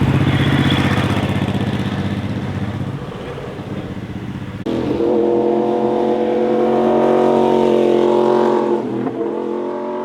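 Motorcycle engine passing and fading away over the first few seconds; then, after an abrupt cut about halfway, another motorcycle revving high, its note rising slowly before dropping away near the end.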